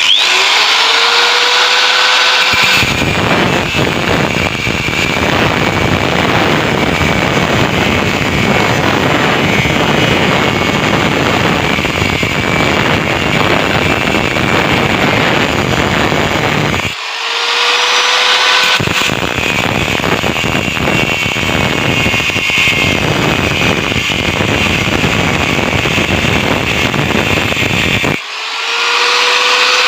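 Angle grinder cutting into the steel shell of a refrigerator compressor. The motor whines up to speed, then a loud, steady grinding rush as the disc bites the metal. It eases off and spins back up twice, about halfway through and near the end.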